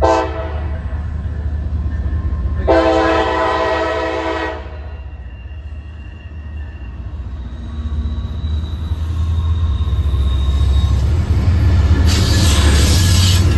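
Train horn sounding a short blast and then a longer blast of about two seconds as a train approaches. The low rumble of the train then builds, with rail and wheel noise rising near the end.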